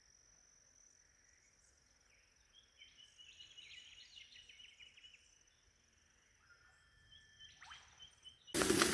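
Quiet bush ambience: a steady high insect drone with a few short bird calls and trills. Near the end it cuts abruptly to much louder sizzling, like food frying.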